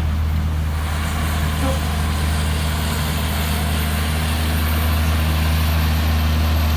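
Heavy truck's diesel engine running with a steady, deep drone that holds one pitch throughout.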